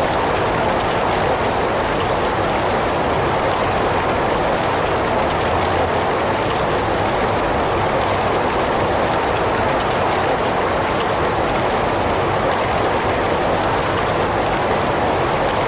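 Heavy rain falling steadily, a dense, even hiss of rain with no breaks or distinct drops.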